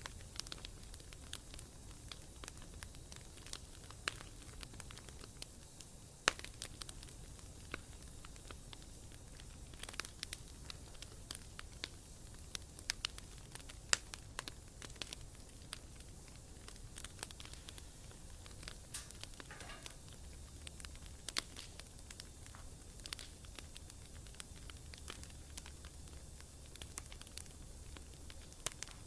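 Wood fire crackling: irregular sharp pops and snaps, a few of them louder, over a faint low rumble.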